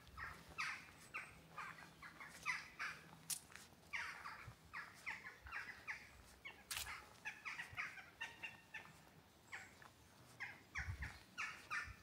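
Birds calling in woodland: a quick, irregular run of short falling call notes, several a second, with a few sharp clicks among them.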